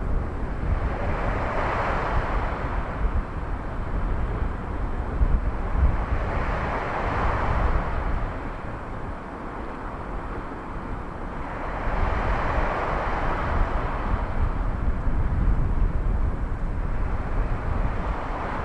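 Small sea waves washing onto the shore, three swells about five seconds apart, under a steady low rumble of wind buffeting the microphone.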